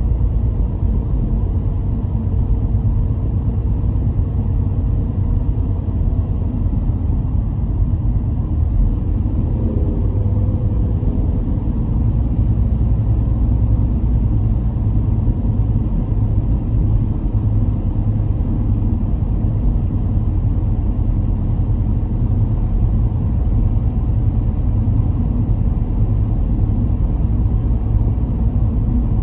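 A car driving steadily: a low, even rumble of engine and tyres on the road.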